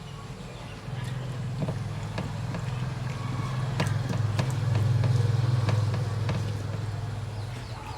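A low engine hum swells for a few seconds and then fades away, like a motor vehicle passing by, with a few light clicks and taps over it.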